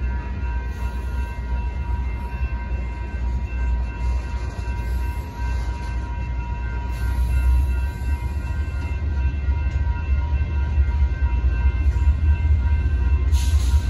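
Freight cars of a BNSF manifest train rolling through a grade crossing, making a steady low rumble of wheels on rail that grows louder from about seven seconds in. Over it, the crossing signal bells ring steadily.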